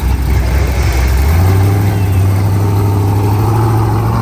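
Car engine running loud, its pitch stepping up about a second in and then held at a steady higher rev.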